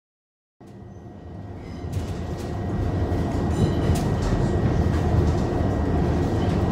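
Train running: after a brief silence a low rumble starts suddenly, grows louder over the next couple of seconds and then holds steady, with clicks and rattles over it and a faint steady whine.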